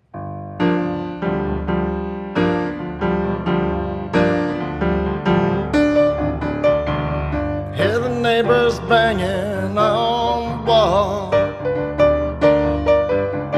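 Instrumental introduction to a song, led by piano playing steady, evenly paced chords. About eight seconds in, a wavering, bending melody line comes in over the piano for a few seconds.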